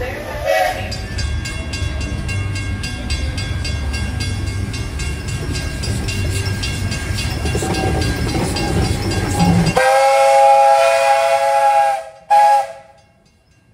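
Steam locomotive working with its train, a steady rumble with an even beat. Near the end its steam whistle sounds one long blast and then one short blast.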